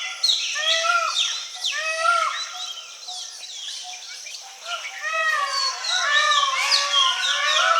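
Wild birds calling in dry forest. For the first few seconds one bird repeats a short arched call about once a second. From about five seconds in, several birds chatter together in a busy chorus of overlapping chirps.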